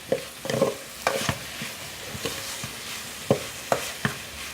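Pork sizzling as it is stir-fried in a pan to cook it through, with a spatula stirring and knocking against the pan several times.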